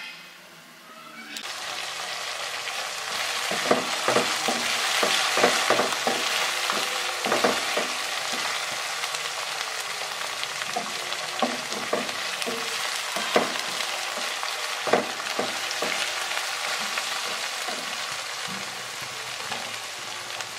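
Ingredients frying in hot oil in a pan, a steady sizzle that starts suddenly about a second in. A spatula stirs through it, knocking and scraping against the pan many times.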